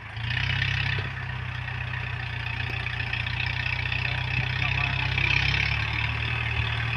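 Heavy diesel engine of earthmoving machinery running steadily, picking up in level just after the start and holding there, with a steady hiss-like band of mechanical noise above the low engine drone.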